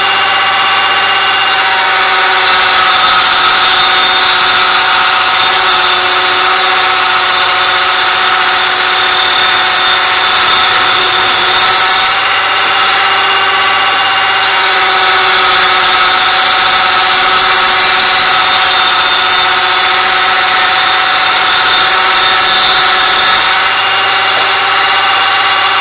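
Mogilevliftmash IE-6009 combination woodworking machine running loudly and steadily with a constant whine, while wood is cut on it in two long passes, with a short break of about two seconds near the middle.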